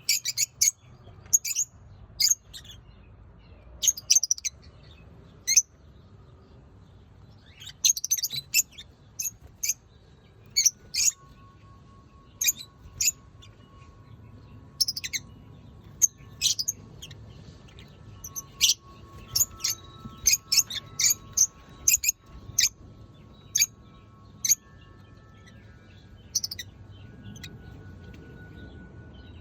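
Lovebirds chirping: short, sharp, high-pitched chirps in irregular bursts, some in quick runs of several calls, with brief pauses between clusters.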